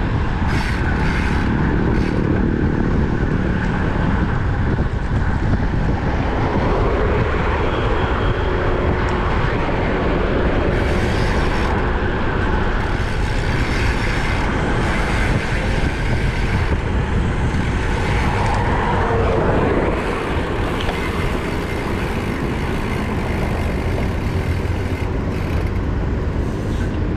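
Steady wind rushing over the microphone of a road bike moving at about 30 km/h, with road traffic passing alongside; a vehicle goes by with a sweeping sound around nineteen seconds in.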